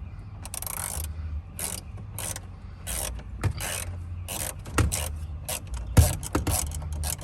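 Socket ratchet clicking and rasping in short irregular strokes as it works a dashboard screw, with a sharp knock about six seconds in. A low steady hum runs underneath.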